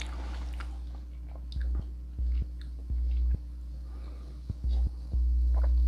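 Close-miked chewing of a mouthful of steak kebab, with small scattered clicks. A low rumble cuts in and out several times, the longest near the end.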